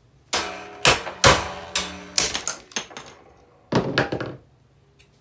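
Hammer blows striking a table fan, about eight hard hits in quick succession, then two more after a short pause. Each hit rings briefly.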